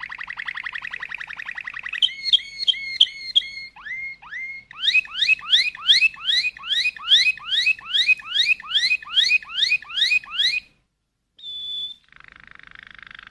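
Bird calls: a fast trill, then a series of sharp repeated notes, then a long run of rising whistled notes about three a second. After a brief silence there is a short high whistle, and the fast trill starts again near the end.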